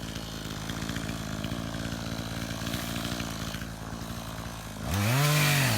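Two-stroke chainsaw idling steadily, then revved hard about five seconds in, its pitch climbing and dropping as the throttle is opened and eased.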